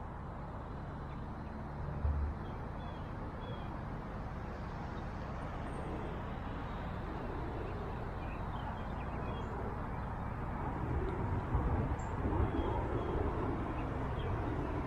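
Outdoor background noise: a steady low rumble of distant traffic, with a few faint high bird chirps scattered through it and faint murmuring voices in the second half.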